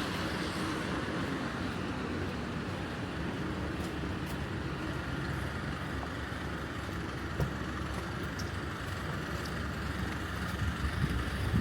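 City street ambience: road traffic running steadily on wet pavement, with a few faint ticks scattered through it.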